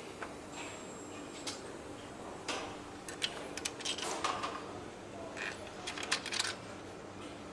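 Irregular metallic clinks and taps of small metal parts and hand tools being handled during engine assembly, clustered in two busy spells, over a steady hum of factory machinery.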